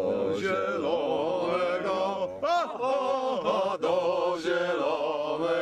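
Chant-like singing, the voice sliding up and down in pitch.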